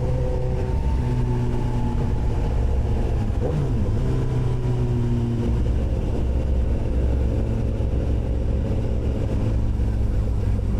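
Honda CBR sport bike's engine running steadily under way, with a brief dip and recovery in pitch about three and a half seconds in.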